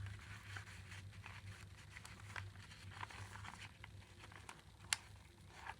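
Faint rustling and small taps of paper and card as junk-journal pages, tags and cards are handled, with one sharper click about five seconds in, over a low steady hum.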